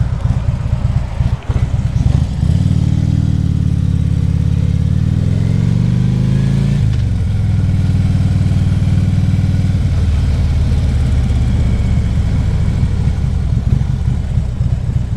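Harley-Davidson Ultra Classic Limited's V-twin engine running while riding. It eases off briefly about a second and a half in, then its pitch rises as it accelerates and drops suddenly about seven seconds in at a gear change, before running steadily again.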